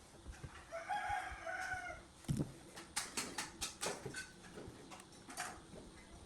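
A rooster crowing once in the background, a single held call of a little over a second. It is followed by a thump and a quick series of sharp clicks and taps.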